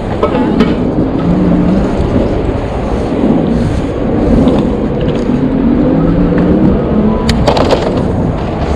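Wind buffeting the microphone on a moving e-bike, with city traffic passing and a few sharp clicks near the end.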